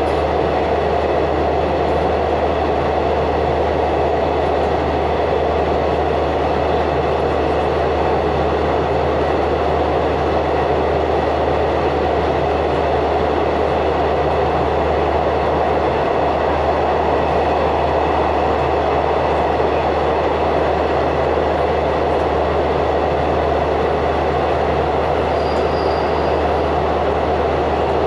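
Steady, loud rumble of a moving passenger train heard from inside the carriage while it runs through a long tunnel, with a constant low hum beneath and no change in pace.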